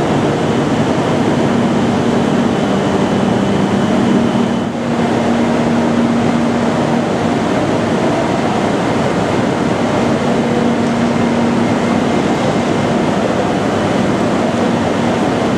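Tohoku Shinkansen train running past the station platform: a loud, steady rushing noise with a low hum underneath, briefly dipping about five seconds in.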